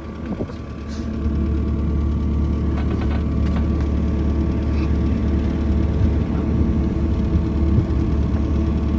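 A vehicle engine running steadily, close by, growing louder about a second in and then holding an even note.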